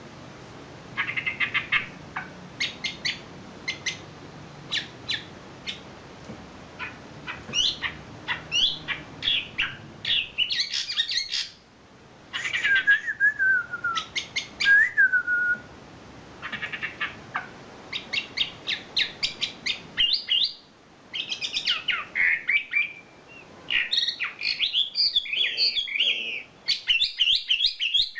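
A wambi songbird singing a long, varied song: series of short sharp chirps and rapid trills, broken by a few downward-sliding whistles about halfway through and growing denser and louder near the end. The song is of the kind bird-keepers call 'isian', strung with fill-in phrases.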